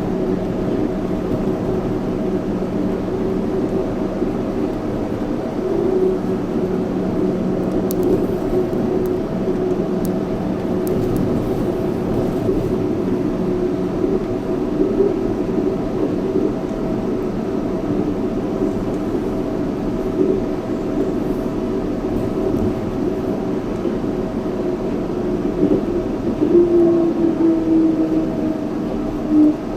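Yurikamome 7300-series rubber-tyred automated train running, heard from inside the front car: a steady hum of tyres and motor with a constant whine. Near the end one tone drops slightly in pitch.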